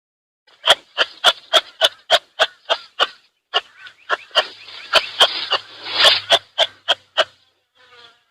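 An animal giving a rapid series of short, sharp calls, about three or four a second, that stop about a second before the end.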